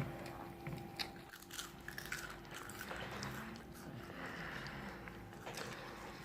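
A person biting into and chewing crunchy fried food close to the microphone, a scattered run of sharp crunches.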